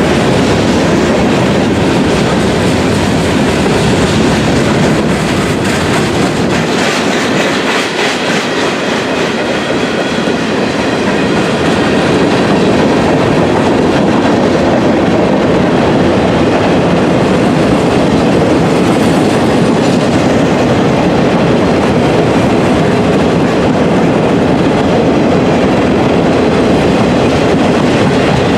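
Freight train cars rolling past on the track: a steady, loud rumble of steel wheels on rail, easing slightly about a third of the way in before building again.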